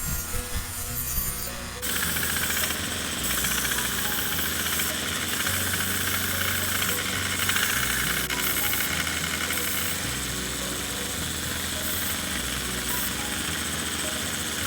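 A power tool running steadily from about two seconds in, with a dense, rapidly pulsing sound, over background music with a bass line.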